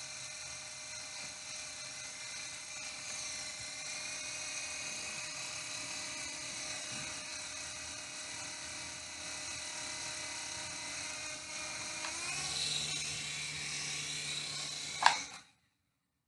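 Toy RC helicopter's small electric motor and rotor whining steadily, the pitch wavering as the throttle changes and rising about twelve seconds in. A sharp click comes near the end, and then the sound cuts off abruptly.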